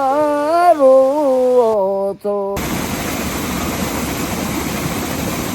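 A voice singing the last long, wavering note of a Bhutanese folk song, which stops about two seconds in. It is followed by an abrupt cut to a steady rushing noise.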